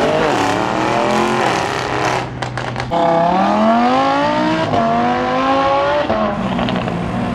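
A performance car engine revving hard, its pitch climbing in three long pulls. About two seconds in there is a short run of sharp exhaust pops.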